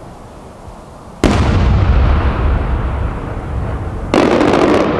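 Two booms of large shakudama fireworks shells about three seconds apart, the first bursting overhead with a long low rolling echo after it, the second with a crackle on top.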